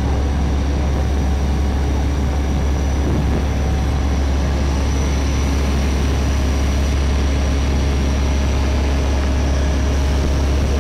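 A tour boat's engine running steadily, a heavy low drone with a faint steady whine above it.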